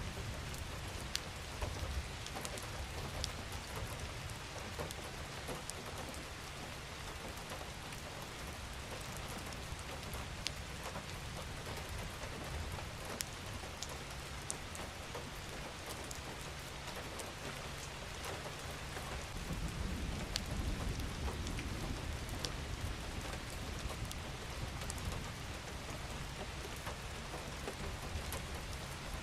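Steady rain falling on a surface, an even hiss with scattered sharp drops. A low rumble swells for a few seconds about two-thirds of the way through.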